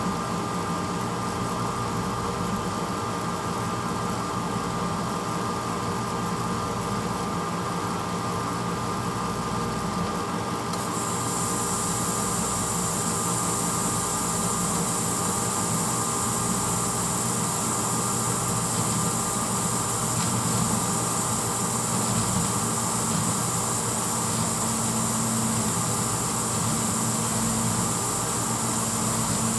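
1986 Hotpoint Potwasher dishwasher running mid-cycle: a steady motor hum under the rush of circulating water. About a third of the way in, a high-pitched hiss starts abruptly and then holds steady.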